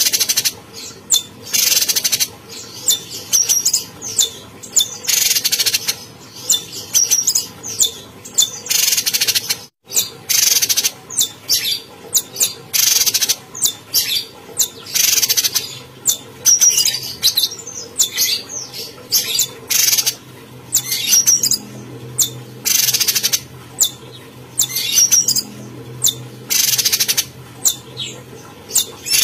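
Cucak cungkok calling persistently: a rapid, irregular series of loud, short, sharp notes, with a momentary gap about ten seconds in.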